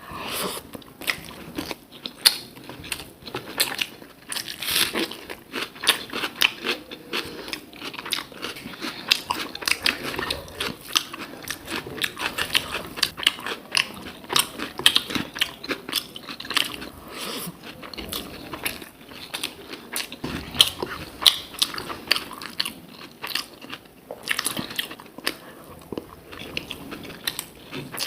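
Close-miked eating: repeated crisp crunches and chewing as fried banana stem (thor bhaja) is bitten and chewed, with many irregular sharp crackles throughout.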